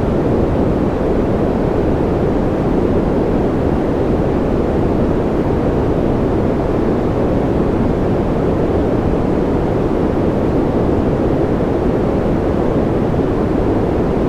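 Steady white-noise sleep track: an even, unbroken hiss weighted toward the low end, so it sounds deep and dull, with no changes.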